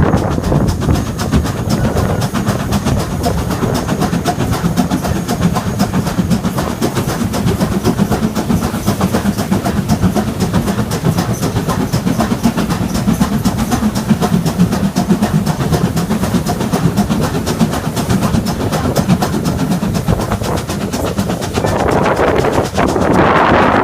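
Heritage steam railway train running along the track: a steady rumble with rapid wheel clicks. Near the end a rushing noise rises over it.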